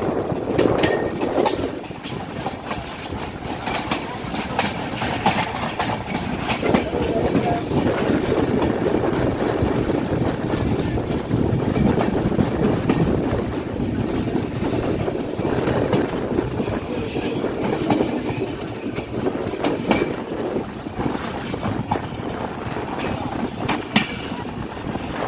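Indian LHB passenger coaches of an intercity train running along broad-gauge track: a steady rumble of wheels on rail with frequent irregular clicks from the track joints, heard from an open coach door.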